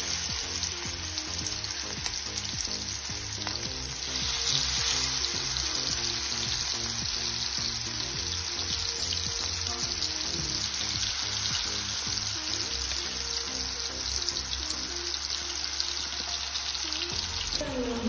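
Masala-marinated prawns sizzling in hot oil in a frying pan as spoonfuls are dropped in. The sizzle grows louder about four seconds in.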